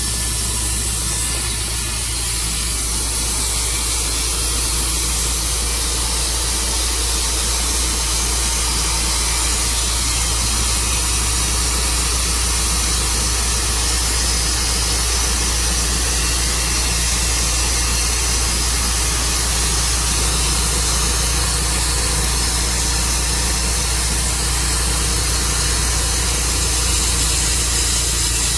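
Engine of a portable sawmill running steadily under a constant low hum, with an even hiss over it.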